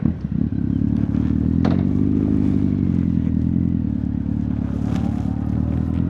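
Honda CB1300's inline-four engine coming in suddenly right at the start and settling into a steady idle, heard through the exhaust. Two short clicks sound over it, one in the first two seconds and one about five seconds in.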